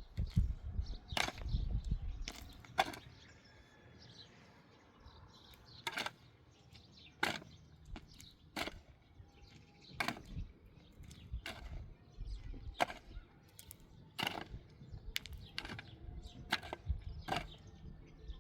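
A series of sharp knocks or strikes, repeating about once every second or so, with a low rumble early on.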